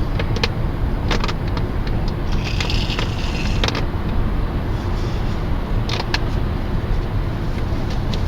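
Steady car road and engine noise, with a few sharp clicks or knocks and a brief hiss about two and a half seconds in.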